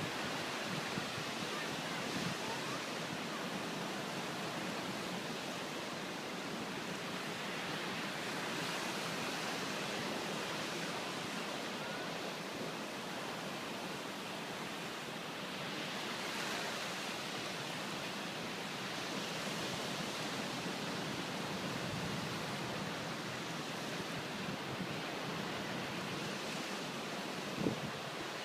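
Steady rushing storm noise, a broad hiss that swells and eases slightly.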